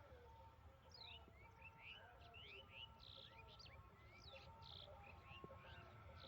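Faint birds chirping, many quick call notes one after another, over a low steady rumble.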